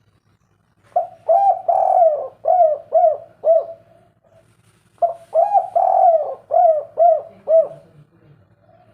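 Spotted dove (derkuku) cooing its 'kuk 3' call twice. Each phrase is a couple of short coos and a longer drawn coo, then three evenly spaced short 'kuk' notes.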